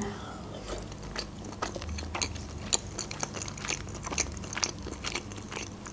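A person chewing a soft boiled pelmeni dumpling stewed in cream, with many small, irregular mouth clicks.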